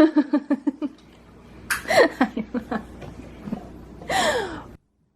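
A person laughing: a quick run of "ha" pulses at the start, then two more short bursts of laughter. The sound cuts off abruptly near the end.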